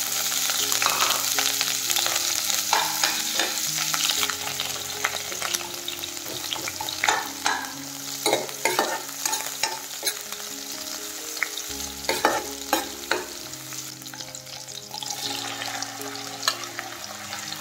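Sliced onions sizzling in hot oil in a metal wok, with a metal ladle clinking and scraping against the pan as they are stirred. The sizzle is loudest at the start and eases a little, and the ladle knocks come most often in the middle.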